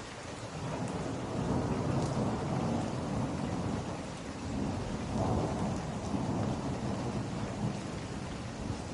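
Steady rain with a low rumble of thunder that swells about a second in, rolls on, and peaks again about five seconds in.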